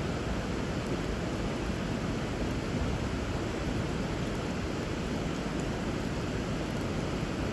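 Steady rush of flowing river water, with a few faint crackles from a wood fire.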